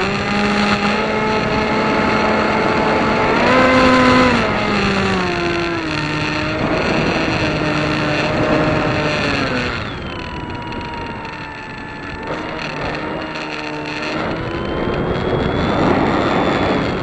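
A piston engine running, its pitch rising briefly about four seconds in and then sinking again. After about ten seconds it gives way to a quieter engine sound whose pitch glides slowly up and down.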